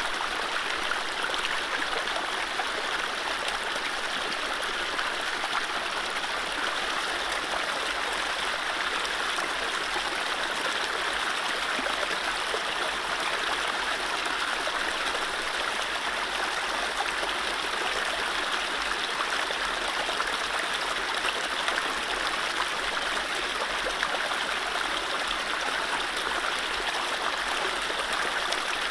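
Mountain stream running over low rapids: a steady, even rush of water with no birdsong.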